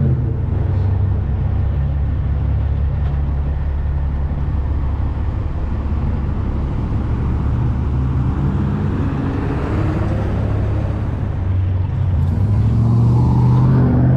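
Wind buffeting an action camera's microphone on a moving electric scooter: a loud, steady low rumble with tyre and road noise beneath it, swelling slightly near the end.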